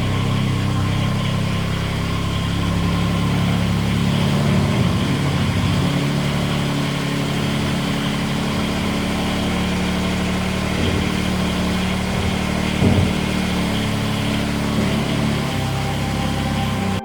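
Ford TW10 tractor's six-cylinder diesel engine running steadily at a constant speed, with one brief knock about three-quarters of the way through.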